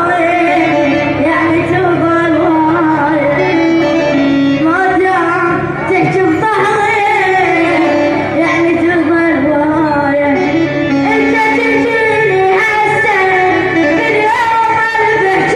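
An Arabic-language song: a solo voice singing a bending, ornamented melody over instrumental accompaniment, without a break.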